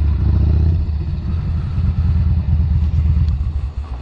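Yamaha SCR950's air-cooled V-twin engine idling with a steady, pulsing low rumble, then cutting off just before the end as it is switched off.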